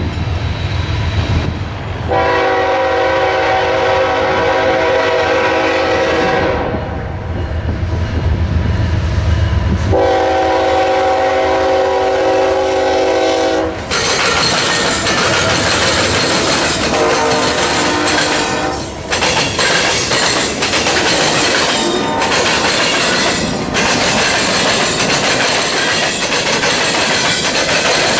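Diesel freight locomotives approaching and sounding their air horn in two long blasts, the first about two seconds in and the second about ten seconds in, over a low engine rumble. About fourteen seconds in the locomotives pass close and loud, and then open hopper cars roll by with their wheels clattering on the rails.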